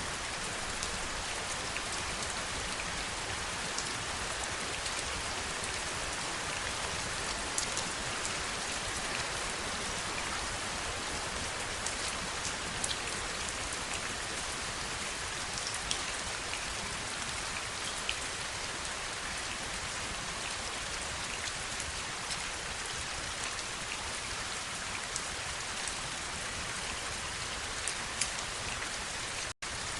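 Steady rain, with individual drops ticking sharply now and then. The sound cuts out for a split second near the end.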